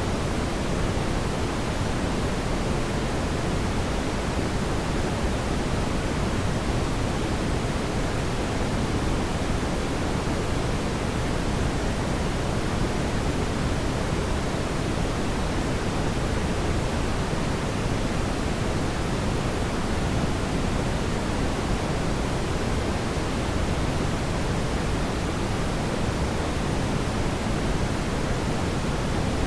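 A steady, even rushing noise, fuller in the low range and unchanging throughout, with no crackles or pops. It is presented as fireplace ambience.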